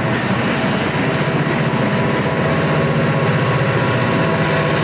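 Freight train passing close: coal hopper cars rolling by with a steady rumble of wheels on the rails, under a low drone of diesel locomotive engines. A set of diesel locomotives in the train comes alongside near the end, working with visible exhaust.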